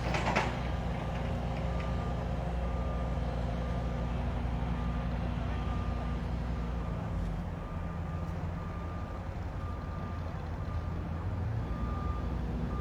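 A construction vehicle's reversing alarm beeping about once a second over the steady low rumble of its engine, with a short knock at the very start.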